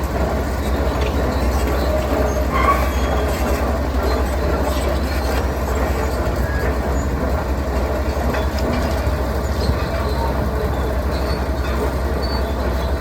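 Heavy diesel construction machinery running steadily with a deep rumble, with a short clank about three seconds in.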